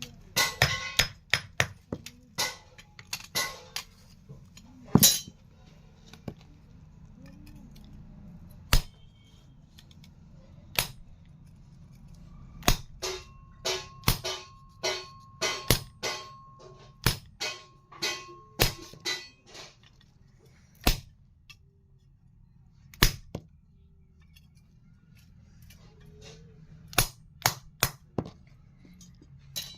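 Blacksmith's hammer striking hot iron on an anvil to cut it: sharp metallic blows with a short ring. A quick flurry of blows comes first, then a steady run of about two blows a second in the middle, with a faint ringing tone under it, and sparser single blows with pauses between them.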